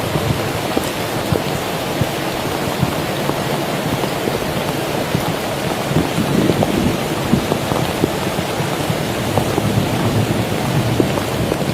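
Heavy rain falling steadily, with dense drops pattering on a nearby surface.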